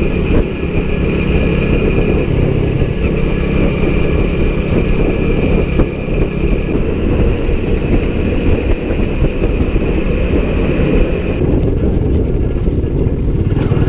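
Motorbike running at road speed, its engine note half-buried under heavy wind rush on the microphone. A thin, steady high whine drops out about eleven seconds in.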